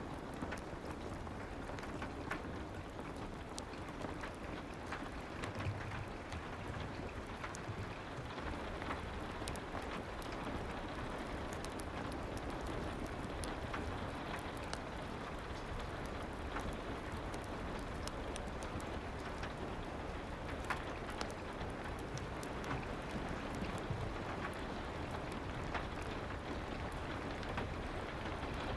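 Steady soft rain mixed with a fireplace's crackling: an even rushing patter with scattered small sharp pops and ticks throughout.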